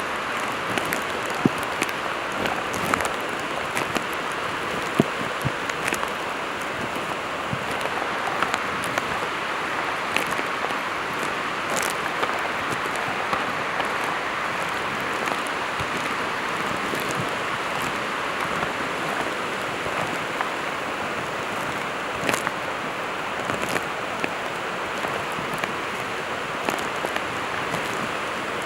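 Steady hiss of water, with scattered sharp ticks throughout.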